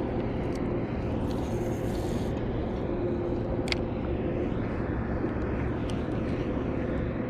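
Steady low rumble with a faint hum, typical of distant engine noise, with a couple of light clicks.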